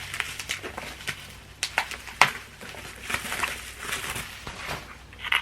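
Packaging rustling and crinkling as a boxed item is handled and unwrapped, with scattered light clicks and taps and one sharper click a little over two seconds in.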